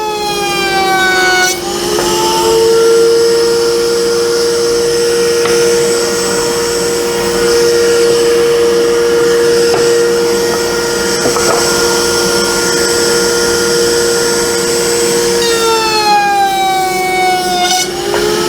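Woodworking power tool cutting dados in a drawer back: a loud, steady motor whine whose pitch falls in the first second or so and sags again toward the end before rising back.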